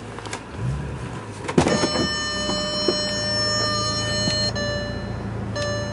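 Bentley Continental GT's 6-litre twin-turbo W12 starting: a short rising crank, a loud catch about a second and a half in, then settling into a steady idle.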